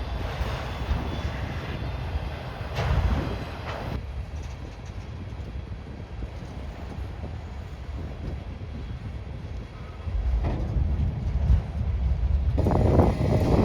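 Freight train moving on the tracks: a steady low rumble of locomotives and rolling cars, growing louder near the end.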